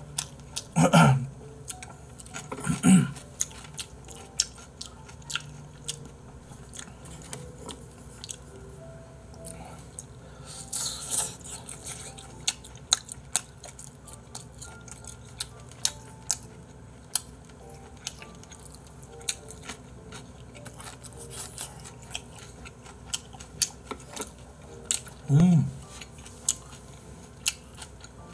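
A person chewing and eating close to the microphone: many small wet mouth clicks and chewing sounds, with a few short wordless vocal sounds about a second in, around three seconds and near the end.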